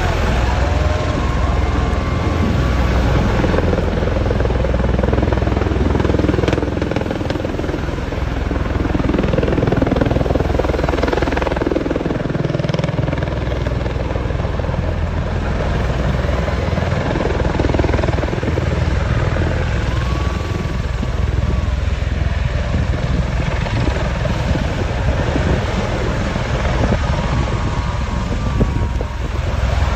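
Bell-Boeing V-22 Osprey tiltrotor in flight: the steady, loud noise of its proprotors and engines, heaviest in the low end, with no break.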